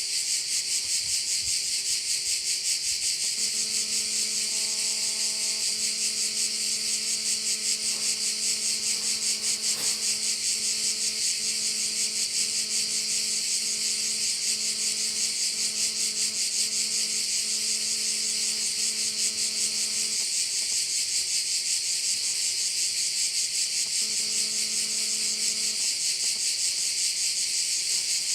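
Dense, steady chorus of crickets, a continuous high buzzing. A faint low hum comes in a few seconds in, stops about two-thirds of the way through, and returns briefly near the end.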